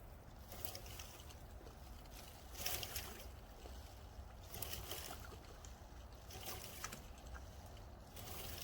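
Faint splashes and sloshing of water in short bursts, a few seconds apart, over a low steady rumble.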